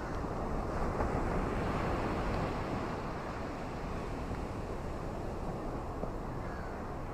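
Ocean waves washing on a beach, a steady rush of surf that swells about a second in and eases back after about three seconds.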